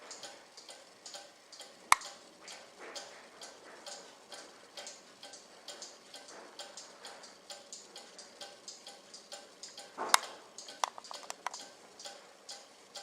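Cuckoo clock movement ticking steadily and fairly fast. A sharp knock comes about two seconds in, and another near the ten-second mark, followed by a few lighter clicks.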